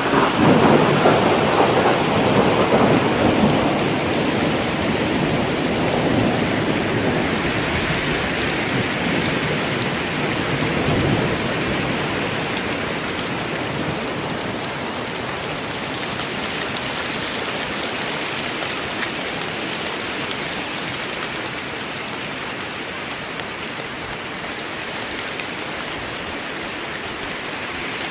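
Steady heavy rain falling on a forest, with a roll of thunder dying away over roughly the first ten seconds, leaving the even hiss of the rain.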